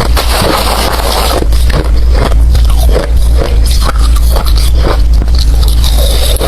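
Ice being bitten and chewed right at the microphone: a dense, irregular run of sharp, crunchy cracks and grinding, over a steady low rumble.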